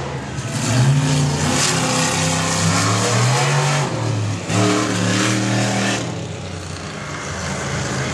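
Monster truck engine revving hard, its pitch climbing and falling in repeated surges, then easing off to a lower, quieter note toward the end.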